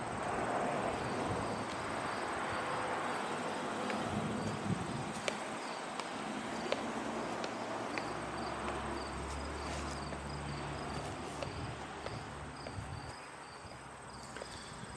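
Insects chirping and buzzing steadily, a high continuous buzz with quick repeated chirps over it, against a general outdoor background. A low rumble rises for a few seconds in the middle.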